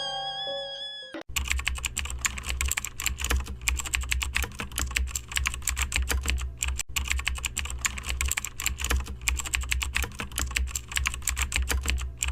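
Fast computer keyboard typing: a dense, irregular stream of key clicks over a steady low hum, briefly breaking off about seven seconds in. It is preceded by the end of a pitched, meow-like sound in the first second.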